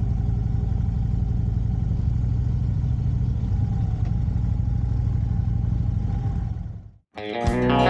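Motorcycle engine running steadily with a low rumble, fading out about seven seconds in. Guitar music starts right at the end.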